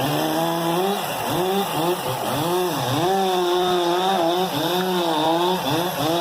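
Two-stroke chainsaw running at high revs and cutting into a fallen coconut palm trunk, its engine note sagging and picking up again over and over as the chain bites into the wood and frees.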